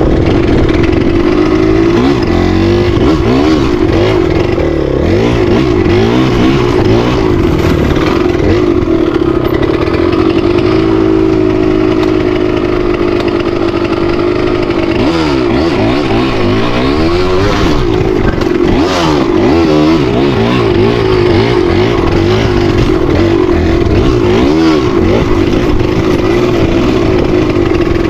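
Dirt bike engine running hard, its pitch rising and falling again and again as the throttle is blipped and rolled on and off over rocky ground.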